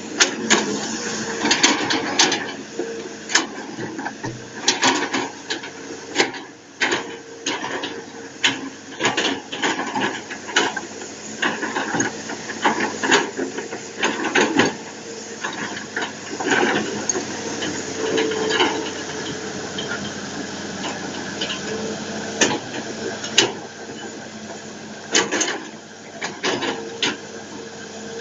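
Hitachi Zaxis 200 excavator running, a steady whine under a noisy mechanical din, broken by frequent irregular metallic clanks and knocks.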